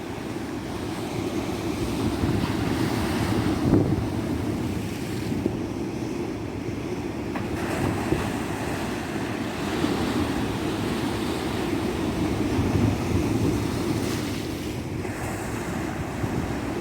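Tropical ocean surf breaking on a beach: a continuous wash of waves that swells and recedes every few seconds.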